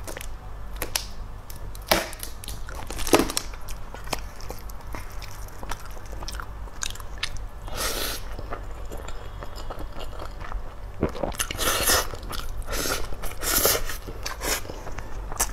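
Close-miked eating sounds: chewing and smacking on spoonfuls of rice mixed with leftover dishes, with irregular sharp wet mouth clicks, denser in the second half.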